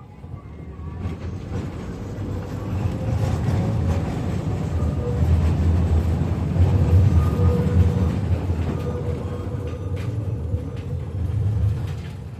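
KTM-5M3 tram running along the rails, heard from inside the car: a low rumble of wheels and motors that builds over the first several seconds, then eases a little, with a faint whine coming and going.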